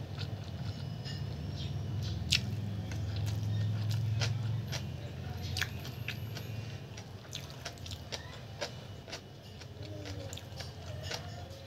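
A person chewing a mouthful of instant noodles and kimchi, with many short wet mouth clicks and smacks, over a low steady hum that fades about halfway through.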